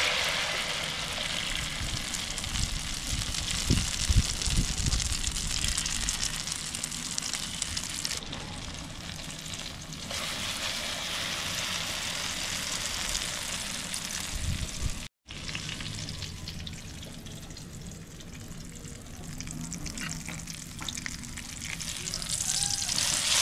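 Eggplant dipped in beaten egg (tortang talong) frying in hot oil in a pan: a steady sizzle, broken by a brief cut to silence about fifteen seconds in.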